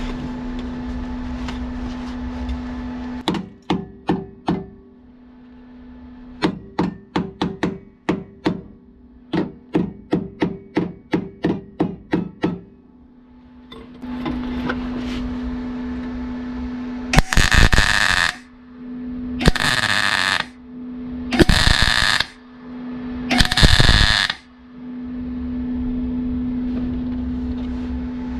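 Metalwork on a classic car's steel body panel: sharp taps about two a second, like a hammer on thin sheet metal, over a steady machine hum. Then four harsh bursts of about a second each, spaced about a second apart.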